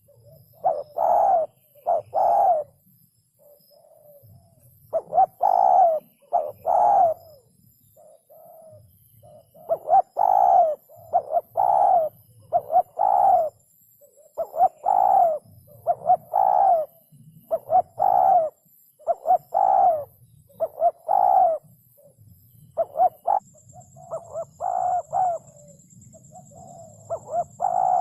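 Spotted dove cooing over and over in short phrases of two to four notes, separated by brief pauses.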